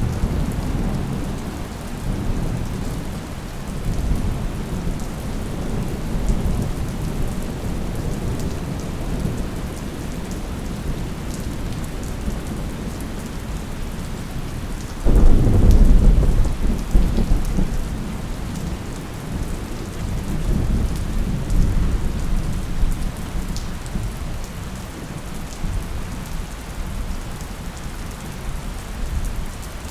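Steady rain falling on a surface with rolling thunder rumbling underneath; about halfway through a sudden, louder thunderclap breaks in and rumbles away over several seconds.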